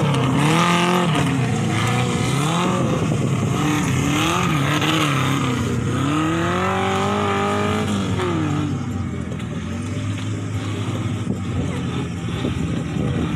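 Off-road 4x4 buggy engine revving hard, its pitch climbing and dropping again and again as it drives the dirt course. After about eight seconds it settles to a lower, steadier note.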